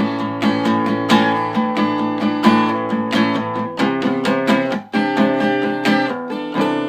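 Acoustic guitar strumming chords in a steady rhythm, with no singing; near the end a chord is struck and left to ring.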